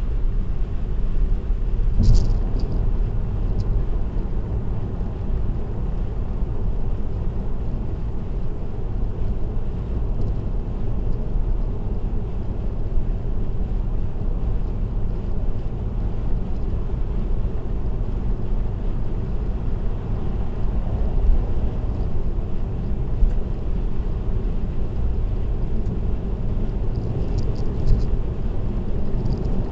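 Steady road and tyre rumble of a car cruising on an expressway, picked up by a dashcam in the cabin. There is a short click about two seconds in and a few faint high ticks near the end.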